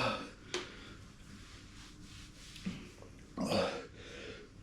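A man burping and breathing hard in a few short bursts, the strongest about three and a half seconds in: the distress of having just eaten a 6.4-million-Scoville chilli product.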